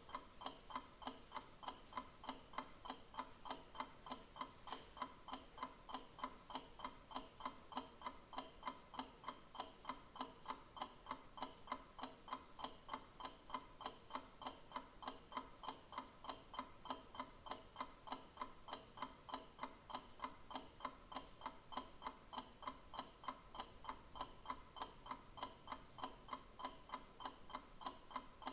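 Clock ticking steadily, sharp even ticks at a little over two a second.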